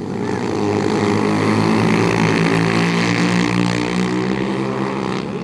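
Engine of a passing motor vehicle running at steady revs, swelling louder and then fading slowly as it goes by.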